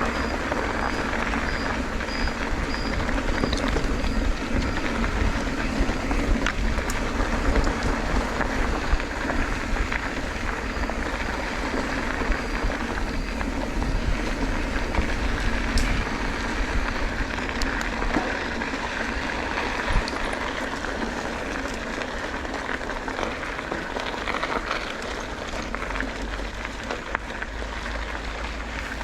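Motorcycle riding along: steady wind rush buffeting the microphone over a continuous engine and tyre drone.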